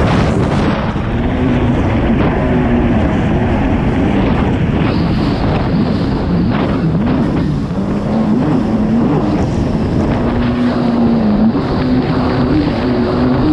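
Kawasaki STX 160 jet ski's four-stroke four-cylinder engine running hard while racing, its pitch rising and falling repeatedly as the throttle changes, over constant wind buffeting the microphone and water rushing.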